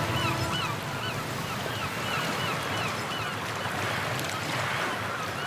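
Many short bird calls over a steady wash of surf: seabird and wave sounds in the background music track, with the last notes of the music dying away at the start.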